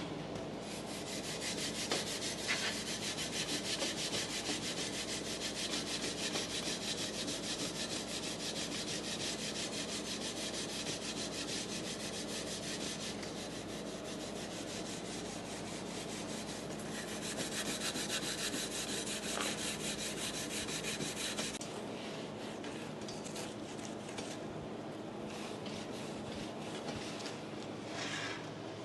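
Old chrome being scoured with a Coca-Cola-soaked abrasive scrubber: a fast, steady back-and-forth rasping scrub that eases off about two-thirds of the way through into lighter, intermittent strokes.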